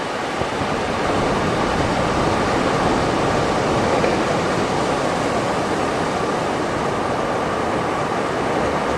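Waves washing onto a beach, a steady dense rush that swells slightly about a second in and eases gradually.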